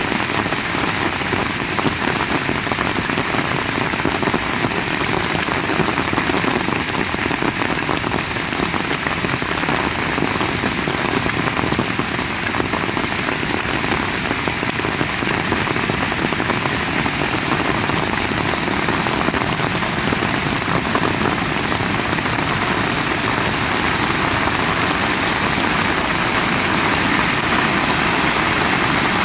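Heavy rain falling hard and steadily, a dense, even hiss of drops.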